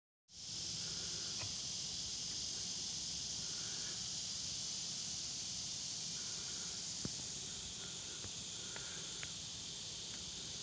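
Steady, high-pitched chorus of insects, an even hiss with a few faint ticks.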